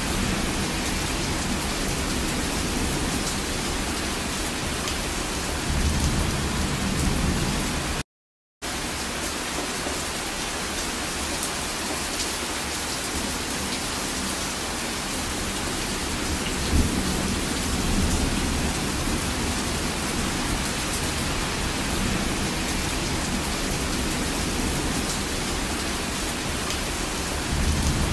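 Heavy rain falling steadily, with a few low rumbles of thunder swelling under it. The sound cuts out for about half a second about eight seconds in.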